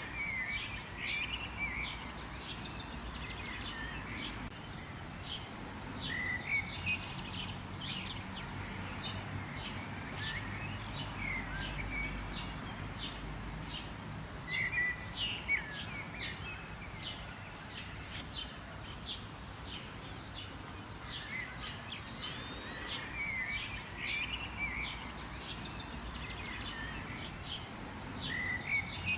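Songbirds chirping and calling: many quick, high chirps and short trilled phrases in clusters, several birds overlapping, over a low steady background rumble.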